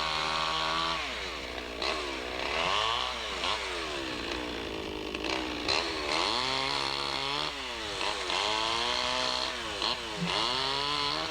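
Chainsaw engine running, revved high and let back down again and again, its pitch dipping and climbing in repeated swoops as it cuts.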